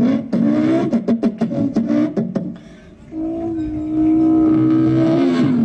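A boy imitating a racing motorcycle engine with his mouth. First come choppy, stuttering revs broken by sharp clicks, then, after a brief dip, one long held note like an engine at high revs, which drops in pitch near the end.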